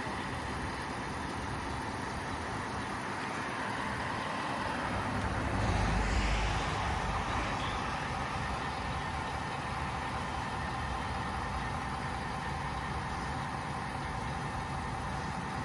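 A motor vehicle's engine idling steadily, with a louder swell of low rumble and hiss about six seconds in.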